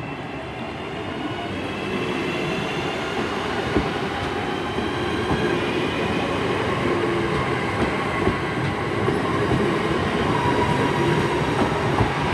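British Rail Class 323 electric multiple unit pulling away from the platform, its traction motors whining in gliding tones as it gathers speed. The sound grows louder over the first couple of seconds, and the wheels click now and then over rail joints.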